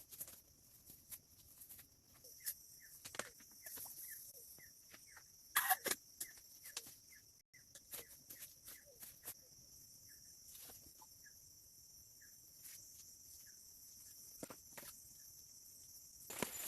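Quiet forest ambience: a steady high hiss with scattered sharp clicks and ticks, a louder cluster of them about six seconds in, and faint short bird-like chirps. The hiss cuts off suddenly near the end.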